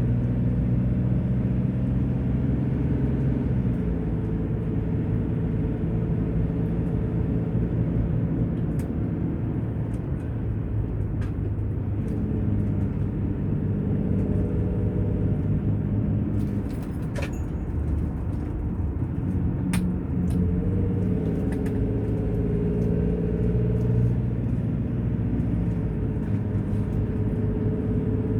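Engine and road noise of a moving vehicle heard from inside the cab: a steady low hum whose pitch rises and falls with speed on a curvy road, with a couple of faint clicks in the second half.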